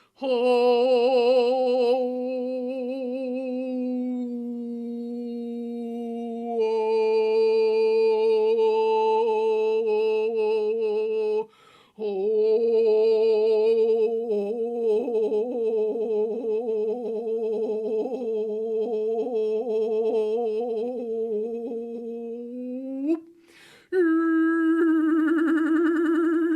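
Wordless vocal toning for a channeled sound meditation: one voice holding long, wavering sung notes. It breaks for a breath about eleven seconds in and again near the end, then comes back on a higher note.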